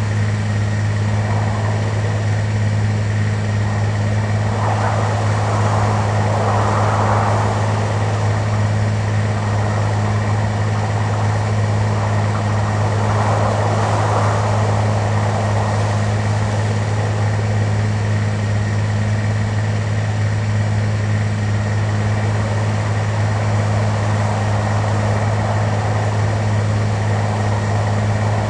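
Steady drone of an airliner's engines heard inside the passenger cabin in flight, a constant low hum with a few fainter steady tones above it.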